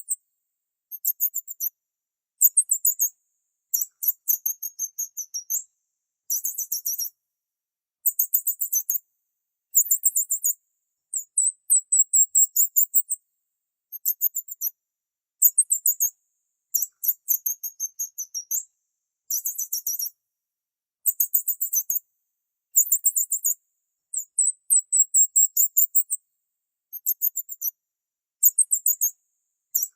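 Very high-pitched bird chirping in short rapid trills, a burst of quick chirps roughly every second and a half with silence between.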